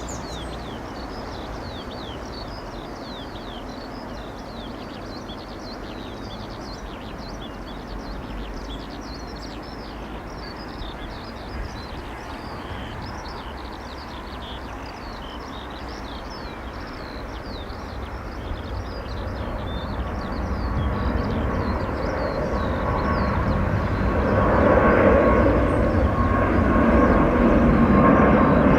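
Jet airliner's engines heard building from a distant rumble to a loud roar with a steady whine over the last ten seconds as the aircraft passes close. Before that, birds chirp over a steady background hum.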